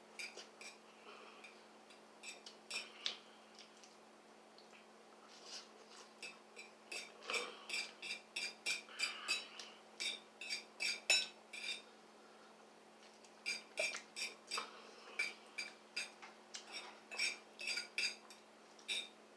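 Eating utensil clinking against a bowl of ramen noodles, many quick clinks in two long runs with a short lull about two-thirds of the way through.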